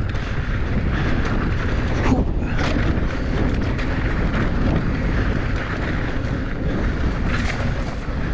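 Mountain bike descending a rutted dirt and rock trail: heavy wind rumble on the microphone, with tyres on the dirt and the bike rattling and knocking over the bumps.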